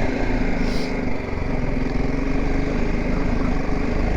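BMW G 310 GS motorcycle's single-cylinder engine running steadily while being ridden.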